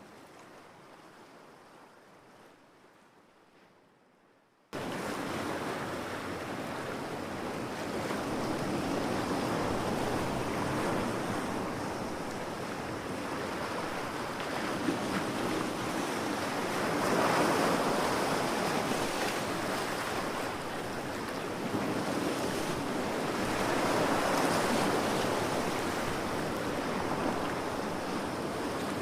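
Ocean surf breaking on a beach, a steady wash of waves swelling and ebbing. The first few seconds fade to faint before the surf cuts back in abruptly about five seconds in, where the looped recording restarts.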